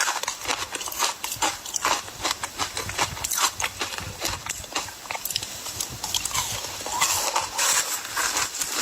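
Ice being chewed and crunched close to the microphone: a dense, irregular run of sharp cracks and crunches, busiest near the end.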